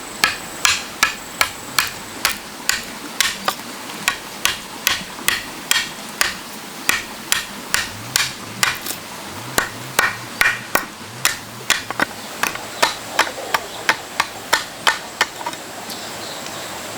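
Hammer blows on wood in a steady run of about two or three strikes a second, stopping about fifteen seconds in.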